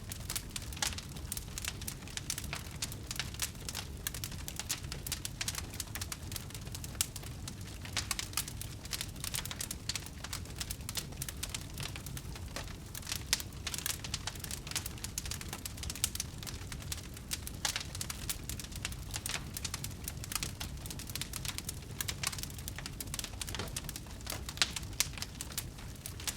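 Wood bonfire burning, with a dense, irregular crackle of sharp pops and snaps over a steady low rumble of the flames.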